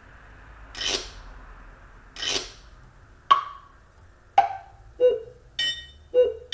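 Electronic keyboard in percussion mode playing a string of odd drum sounds triggered from its high G key. First come two noisy cymbal-like swishes, then two sharp knocks, then a regular beat of pitched hits with a bright ringing overtone, about one to two hits a second, from about five seconds in.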